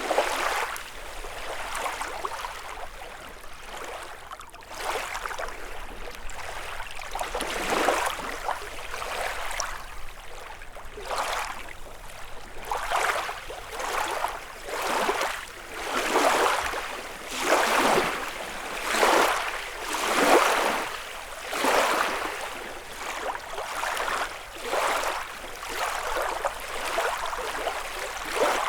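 Small lake waves washing against the shore one after another, each a short swelling rush of water about a second apart, loudest in the middle stretch.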